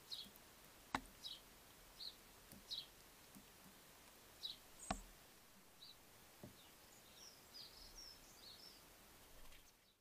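Garden birds calling: short, high, downward chirps every second or so, then a quicker run of higher chirps near the end. Two sharp clicks, about a second in and near five seconds in, are the loudest sounds, and everything fades out at the very end.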